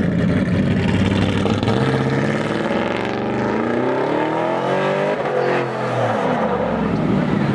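A vehicle engine running loudly, revving up over about three seconds and then dropping back down.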